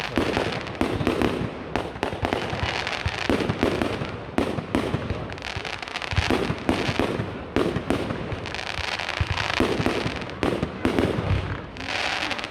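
Fireworks display going off: a continuous run of sharp bangs from bursting shells and crackling between them.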